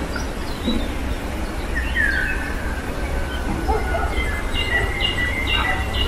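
Woodland birds singing: scattered chirps and whistled notes, with a long falling whistle about two seconds in and a run of repeated short notes near the end, over a steady low rumble.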